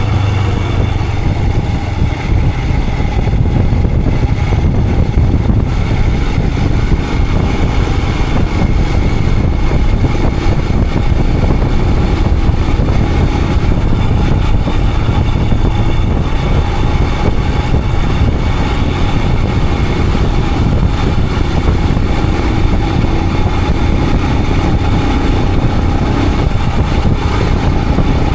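Royal Enfield Himalayan 411's single-cylinder engine running steadily on the motorcycle.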